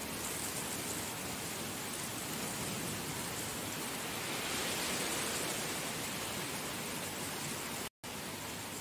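Heavy rain falling steadily, a dense even hiss that swells a little midway and cuts out for an instant near the end.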